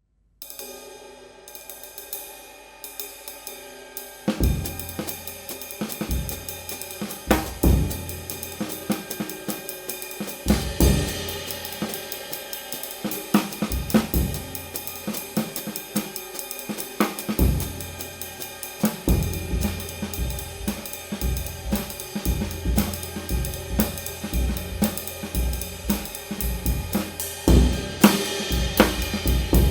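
Handmade 19-inch medium-weight B20 bronze ride cymbal (Kamin X-Klasse, 1909 g) played on its own for about four seconds, then as part of a drum-kit groove with bass drum and snare coming in underneath.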